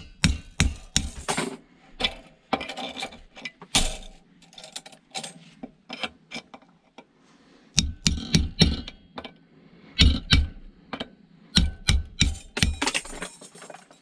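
Hammer blows knocking at a solid metal part to free it, in quick runs of several strikes, with lighter clinks and scraping in a lull between the runs.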